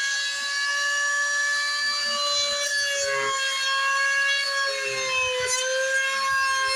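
Electric router running with a steady high whine while trimming a scrap test piece of RV siding; the pitch sags briefly a couple of times as the bit takes the load.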